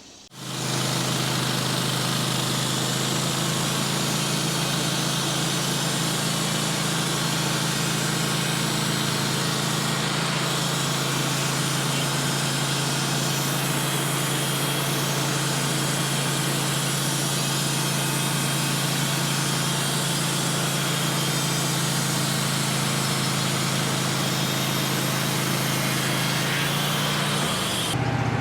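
Sawmill engine running steadily at a constant speed. Near the end the engine note drops and changes.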